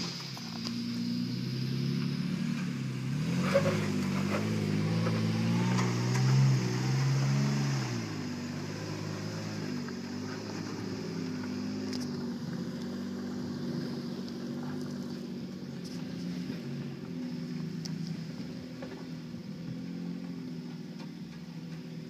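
Jeep Wrangler Unlimited engine working under load as it rock-crawls up a steep slope. The revs rise and fall for the first several seconds. About eight seconds in it drops quieter and steadier as the Jeep climbs away.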